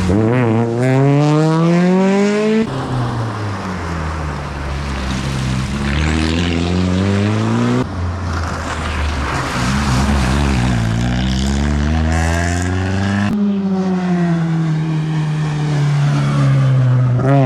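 Rally cars at full throttle on a stage, engines revving hard and climbing in pitch, then dropping and climbing again through gear changes. The sound changes abruptly a few times as one car's run gives way to another's.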